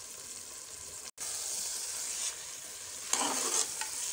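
Mutton masala sizzling as it fries in a pot, a steady hiss that cuts out for an instant about a second in. From about three seconds in, a utensil scrapes and stirs through the mixture in several uneven strokes.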